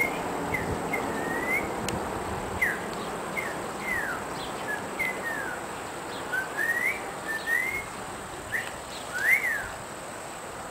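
A small bird chirping: a string of short, thin chirps at irregular intervals, some sliding down in pitch and some sliding up.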